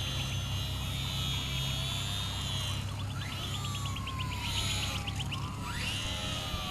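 Electric motor and propeller of a Carbon Cub S2 RC airplane in flight: a faint whine with several slow falling glides in pitch, over a steady low rumble.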